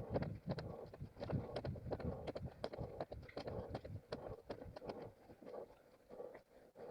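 Running footfalls on rough forest ground, heard close from a head-mounted camera: a quick, uneven patter of thuds with many sharp crackles, lighter toward the end.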